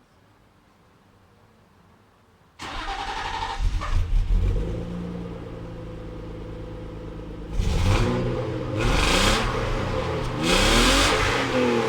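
1998 BMW E39 520i's 2.0-litre straight-six cranking and catching about two and a half seconds in, settling into a steady idle, then revved three times from about seven and a half seconds in, each rev rising and falling in pitch.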